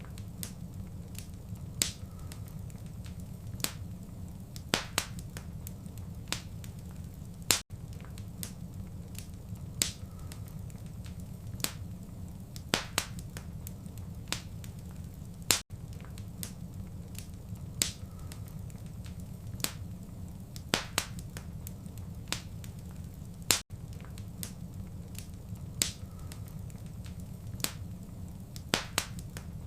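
Wood fire crackling in a fireplace: sharp pops and snaps at irregular intervals over a steady low rumble. The sound cuts out for an instant about every eight seconds, where the recording loops.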